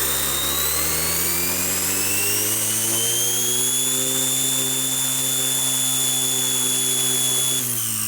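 M03 RC helicopter's motor and rotor spinning up: a whine that rises in pitch over the first few seconds, holds steady, then drops sharply in pitch near the end.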